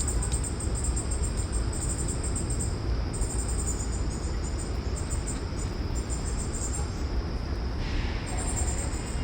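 Insects chirping in repeated bouts of rapid, high-pitched pulses over a steady low rumble.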